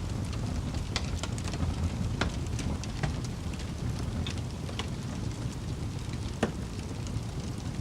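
Wood fire crackling: irregular sharp pops and snaps over a steady low rumble of burning, with one louder pop a little after six seconds in.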